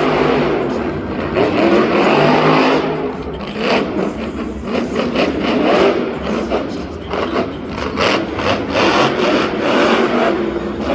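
Monster truck engine revving up and down hard, with repeated knocks and clatter through the second half.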